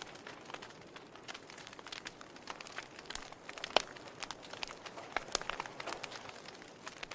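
Real wood fire crackling in a fireplace: irregular sharp pops and snaps over a soft hiss, with one louder pop about halfway through.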